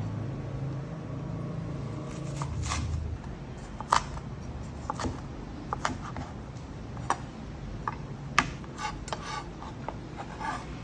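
A low steady hum for the first few seconds, then irregular light clicks and taps, two sharper than the rest about four and eight seconds in.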